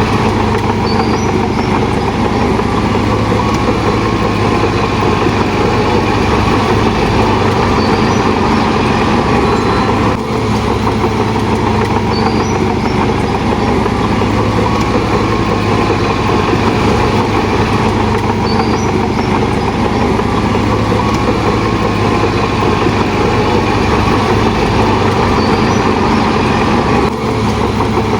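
Heavy diesel engine of a Shantui DH17 bulldozer running steadily and loudly, dipping briefly about ten seconds in and again near the end.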